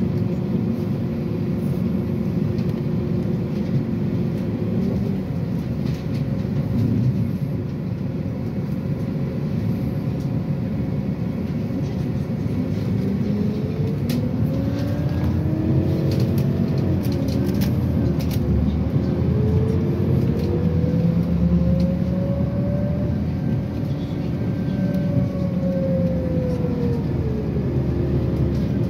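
City bus heard from inside, its drivetrain running steadily while driving; about halfway through a whine rises in pitch and falls again, twice, as the bus speeds up and slows.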